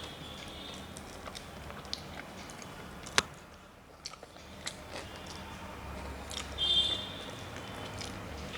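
Close-up eating sounds: chewing and small wet clicks of food, with one sharp click about three seconds in and a brief high-pitched squeak near the end.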